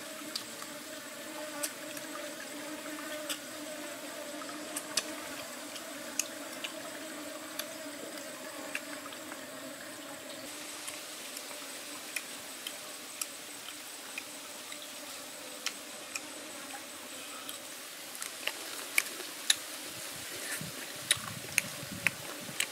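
Close-up eating sounds: scattered wet clicks and smacks of chewing and lip-smacking, louder and more frequent near the end, over a steady low hum.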